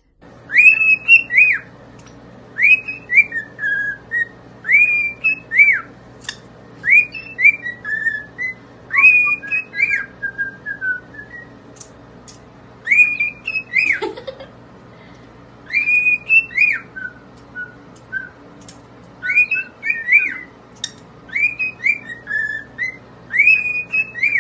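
Parrot whistling a short melodic phrase over and over, clear notes that rise and fall, each phrase about a second long with brief pauses between.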